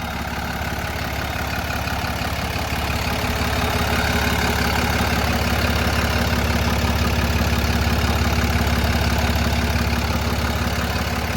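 PACCAR PX-7 inline-six diesel engine of a Kenworth T270 idling steadily.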